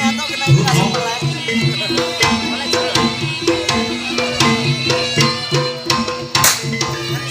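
Live jaranan ensemble music. Kendang hand drums beat a quick, busy rhythm over repeating gamelan metallophone notes.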